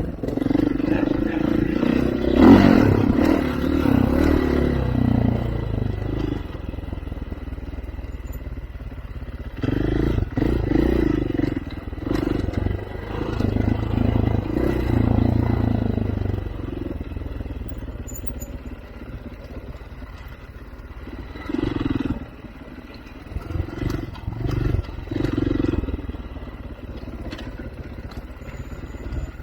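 Off-road vehicle engine working up a rough dirt trail, throttle opening and closing in repeated surges every few seconds, with scattered knocks and rattles from the terrain.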